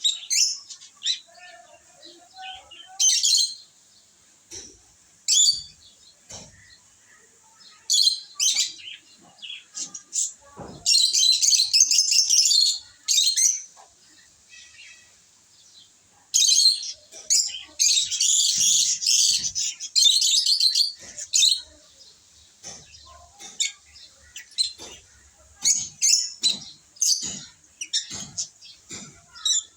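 Lovebirds chirping: short, shrill calls broken by quiet gaps, with two longer spells of rapid, continuous chattering around the middle.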